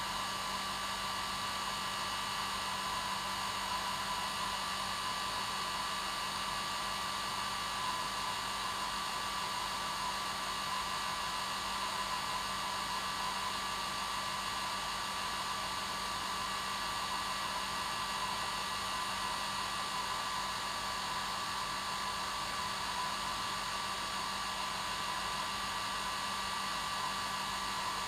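Hair dryer running steadily on its normal setting: an even rush of blown air with a constant motor hum and whine underneath, unchanging throughout.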